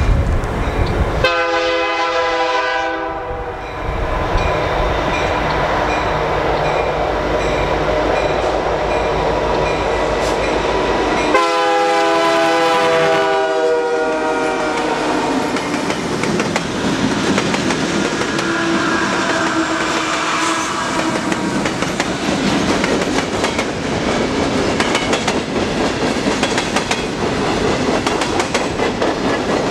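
Freight train passing close by. The lead locomotive, an EMD SD75I diesel, sounds its air horn in two long blasts, about a second in and again about eleven seconds in. Then the diesel locomotives run past, followed by freight cars rolling by with a steady clickety-clack of wheels on the rails.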